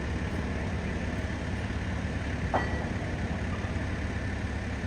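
A large vehicle engine idling steadily, with one brief sharp clank about two and a half seconds in.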